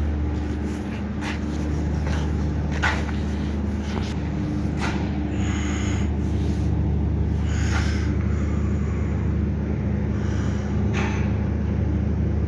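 A steady low engine drone with a few short clicks and knocks scattered through it.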